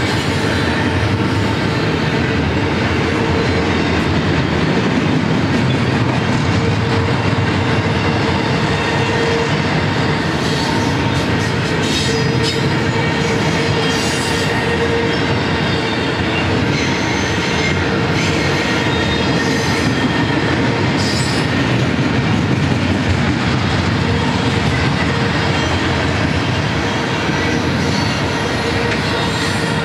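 Double-stack intermodal container train rolling past: a steady rumble of steel wheels on the rails, with a steady ringing tone underneath. A few brief high wheel squeals come through about halfway.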